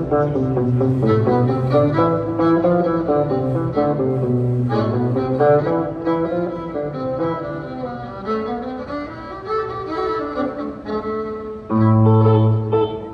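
Country string-band music: a fiddle melody over guitar and bass. A louder low bass note comes in near the end, then the music drops away.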